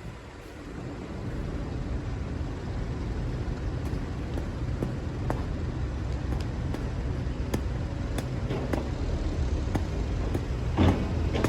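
Excavator engine running steadily and building up just after the start, with scattered sharp clicks and knocks of the machine at work and a louder burst near the end.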